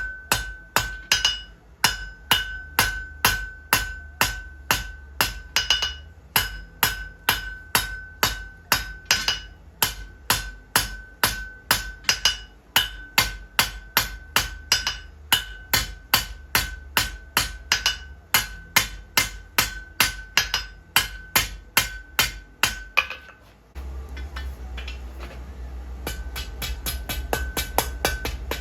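Blacksmith's hammer forging iron on an anvil, about two to three blows a second in runs of several blows with short pauses between, each blow leaving the anvil ringing. The hammering stops near the end and a steady low hum starts, with lighter, quicker taps over it.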